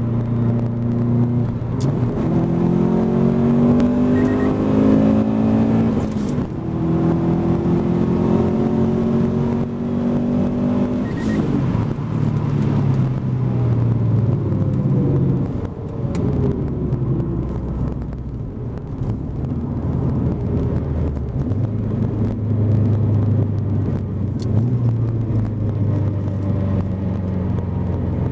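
In-cabin sound of a 2005 Subaru STI's turbocharged 2.5-litre flat-four, fitted with a Blouch TD05 18G-XT turbo, pulling hard under acceleration with its note climbing in pitch. The climb breaks off briefly about six seconds in and rises again, then drops away about eleven seconds in as the car slows, settling to a lower steady drone.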